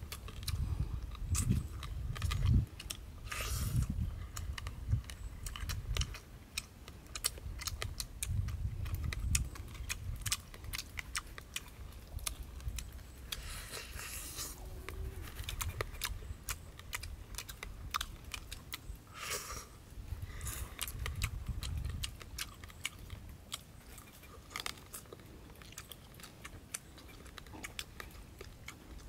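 A person chewing and biting food close to the microphone, with irregular clicks and crunches throughout.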